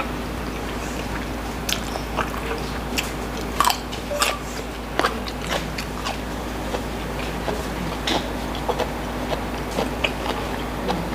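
Close-up mouth sounds of someone chewing and biting raw celery, with irregular crisp crunches.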